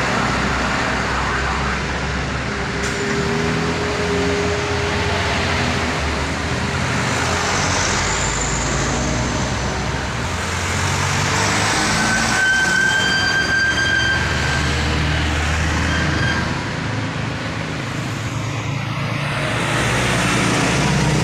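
Heavy loaded trucks with engines labouring as they climb, amid steady road traffic. A high held whine sounds for about four seconds past the middle.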